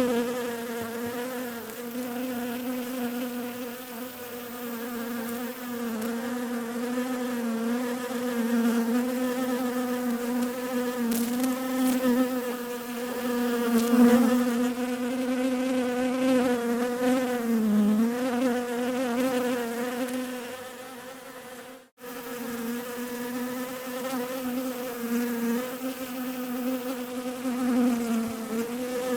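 Bees buzzing close by, a steady droning hum whose pitch wavers and dips slightly. The buzz cuts out for an instant about three-quarters of the way through, then carries on.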